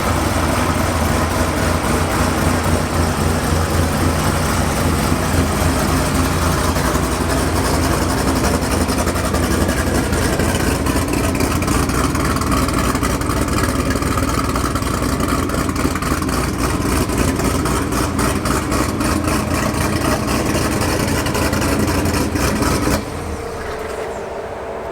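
Heavily built 2009 Corvette ZR1's supercharged 6.2-litre LS9 V8, with a ported and polished supercharger, running steadily and loudly; the sound drops suddenly in level near the end.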